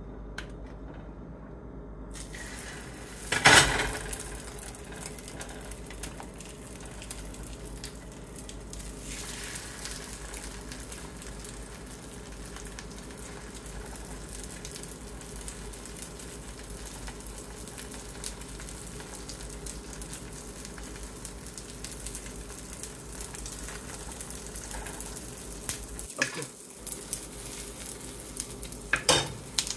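Egg-coated zucchini slices sizzling steadily in a nonstick frying pan, with a loud burst of sizzle about three and a half seconds in. Near the end a few sharper spikes as beaten egg is spooned over the slices.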